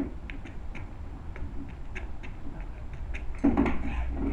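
Handling noises: scattered light clicks and scratching, then a louder rustle about three and a half seconds in.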